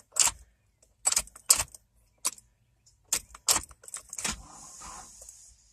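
Keys jangling and a string of sharp, separate clicks, about seven over four seconds, as the ignition key is worked on a 1995 Ford Ranger with a dead battery. There is no steady cranking: the jump booster is too weak to turn the engine over. A faint hiss follows near the end.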